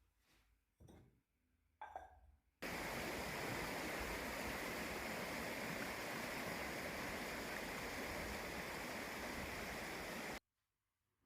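Steady rushing of running water, starting abruptly about two and a half seconds in and cutting off sharply near the end. It is preceded by a few faint soft knocks.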